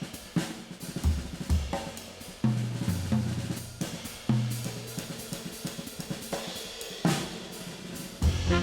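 Background music: a drum-kit beat with snare, hi-hat and cymbal hits over a bass line.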